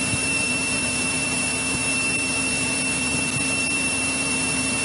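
Steady in-flight cabin drone of a 1963 Cessna 172E's Continental O-300-D six-cylinder engine and propeller, with a low hum and a thin steady high whine running through it.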